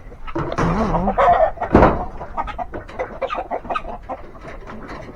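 Chickens clucking, many short overlapping calls, with a brief loud knock about two seconds in.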